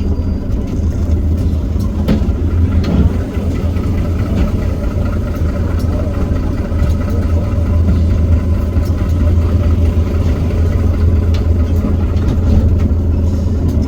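Iveco Cursor 8 six-cylinder diesel of a Heuliez GX327 city bus running as the bus drives, a steady low drone that grows gradually louder.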